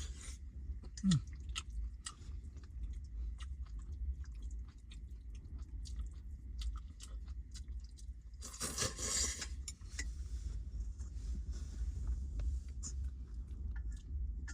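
A person eating, chewing food with small crunches and clicks, over a steady low rumble of wind. About nine seconds in there is a brief louder rustle.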